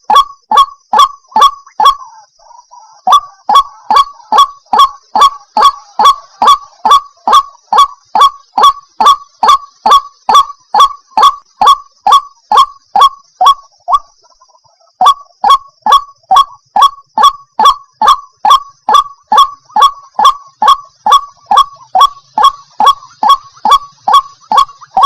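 White-breasted waterhen calling: a fast, even series of sharp 'kwak' notes, each dropping quickly in pitch, about two and a half a second. The series breaks off briefly about two seconds in and again near the fourteen-second mark.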